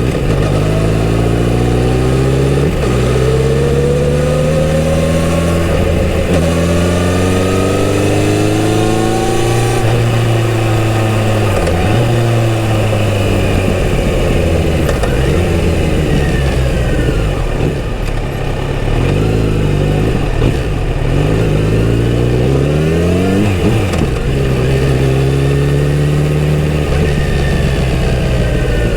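Kawasaki Z900RS inline-four through its original stock exhaust, accelerating up through several gears with the pitch rising each time. It eases off about ten seconds in, runs lower for a while, then picks up again and holds near the end.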